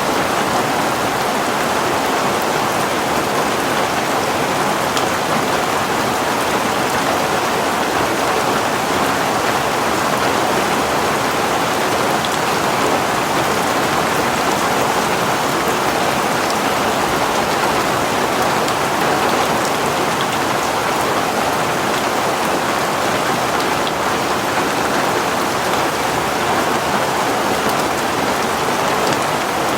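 Heavy rain falling steadily on a surface.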